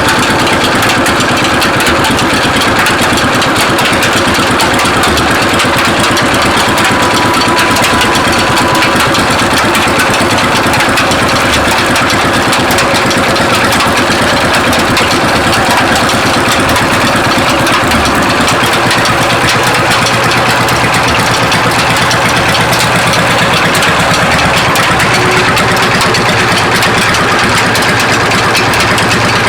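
Stationary Petter-type diesel engine running steadily, of the kind that drives a village sugarcane crusher.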